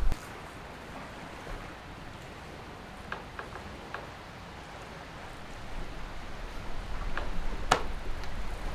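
Wind heard from inside a shelter as a steady faint hiss, its low rumble building after about six seconds, with a few scattered small clicks and one sharper knock near the end.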